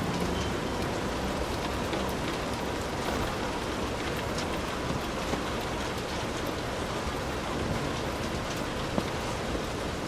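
Heavy rain falling steadily on a hut roof: a dense, even hiss with scattered individual drops ticking, and one sharper drop about nine seconds in.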